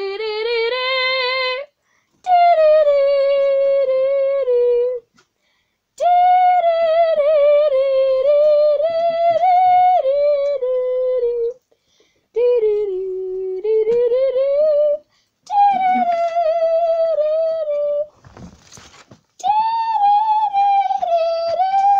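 A child humming a wordless tune in several long, wavering phrases with short breaks between them.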